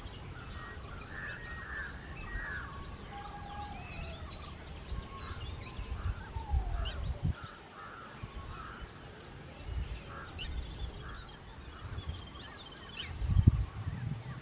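Several birds calling and chirping, short notes and quick gliding calls overlapping, over a low wind rumble on the microphone, with a louder low thump near the end.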